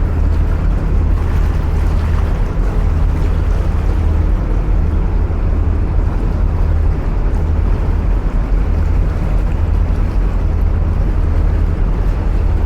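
Narrowboat diesel engine running steadily at cruising speed inside a canal tunnel: a low rumble that swells and eases slightly.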